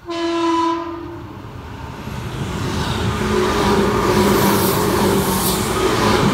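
Tobu 10050-series electric train sounding a horn blast of about a second as it approaches, then running through the station at speed with wheel and rail noise building up and staying loud as the cars go by.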